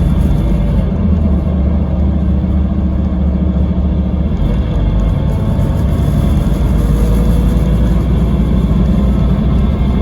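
Scania K320IB coach's nine-litre five-cylinder diesel engine running steadily on the move, a loud low drone.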